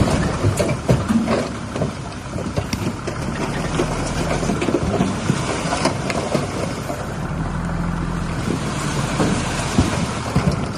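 Diesel engine of heavy earthmoving equipment running under load, with frequent clanks and knocks from the machine working.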